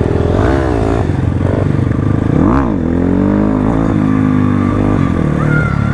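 Crossfire RM250 dirt bike engine running and blipped twice, the revs rising and falling about half a second in and again about two and a half seconds in, then settling to a steadier, lower run.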